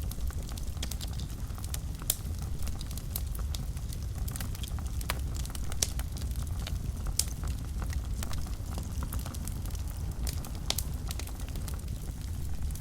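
Wood fire burning in a fireplace: a steady low rumble of flames with frequent sharp crackles and pops, a few louder pops scattered through.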